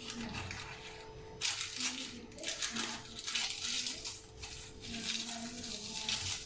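Baking paper crinkling and rustling in irregular bursts as it is handled and pressed into a silicone cake tray, with light clinks.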